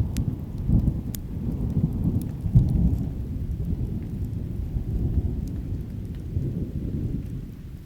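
Rolling thunder rumbling low and gradually dying away, over rain, with scattered sharp pops from a crackling wood campfire.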